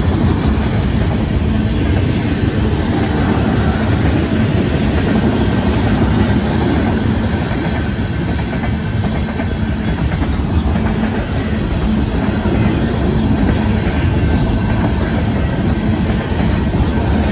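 Freight cars of a long mixed train rolling steadily past at a grade crossing, with wheels clattering over the rails. Underneath, the crossing's bells keep ringing: a General Signals electronic bell and a WCH mechanical bell, the mechanical one sounding pretty rough.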